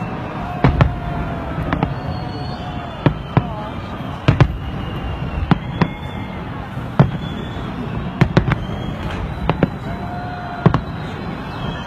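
Fireworks going off overhead: sharp, irregularly spaced bangs, roughly one or two a second, over a steady background din.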